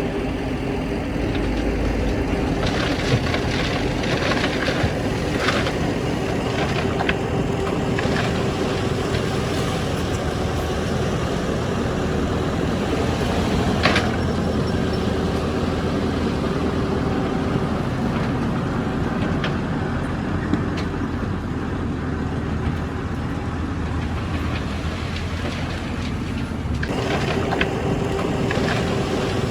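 Heavy diesel earthmoving machinery running steadily under load, with scattered clanks and knocks of metal and rock. The sound shifts abruptly near the end.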